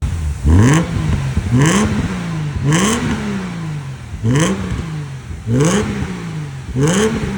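Subaru Legacy Spec B's 3.0-litre EZ30 flat-six engine being blipped six times in a row. Each rev rises quickly and falls back more slowly, about one a second.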